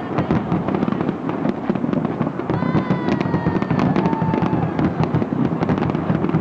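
Big fireworks display: a dense, continuous stream of bangs and crackling. About midway a high whistle sounds for about two seconds, falling slightly in pitch.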